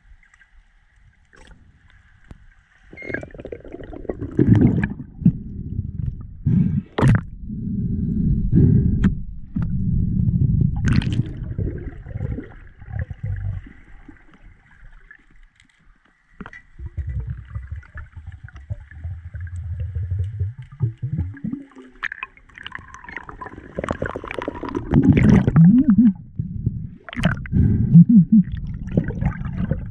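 Muffled water sounds heard through an underwater or water-covered microphone: gurgling and bubbling that comes in surges, with a few sharp clicks or knocks.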